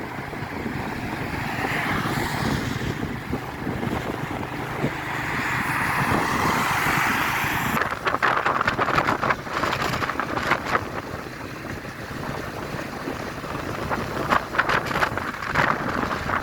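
Wind buffeting the microphone: a steady rushing, with crackling gusts from about halfway through.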